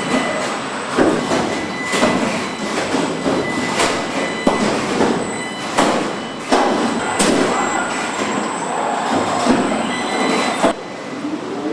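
Truck assembly-plant floor noise: sharp metallic clanks and knocks every second or two over a steady machinery din with a faint high whine. The din drops suddenly near the end.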